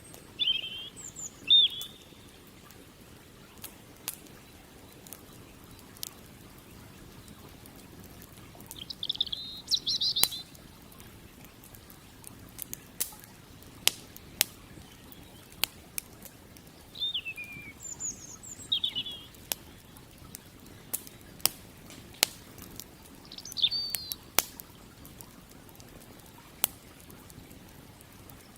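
Campfire crackling, with sharp wood pops every second or so, over a steady low rush of river water. Small birds chirp in short bursts about a second in, around ten seconds, around 17 to 19 seconds, near 24 seconds and again at the very end, and their calls are the loudest sounds.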